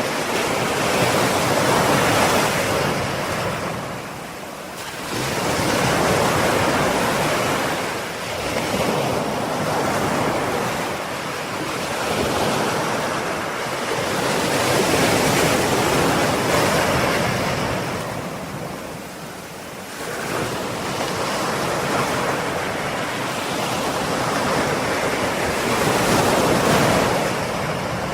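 Ocean waves breaking and washing ashore, the surf swelling and easing every few seconds with a deeper lull about a third and two thirds of the way through.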